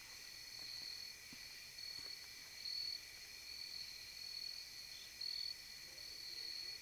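Steady high-pitched night chorus of crickets, with one singer swelling louder about every two to three seconds.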